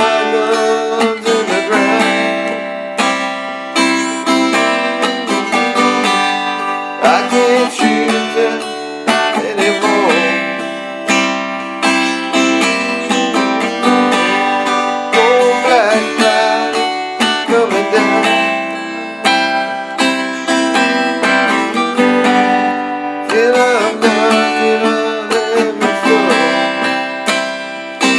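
Acoustic guitar strummed and picked, an instrumental passage between sung lines.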